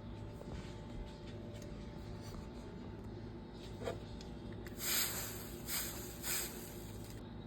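A low steady hum with a few faint clicks, then three short bursts of hiss about five to six and a half seconds in.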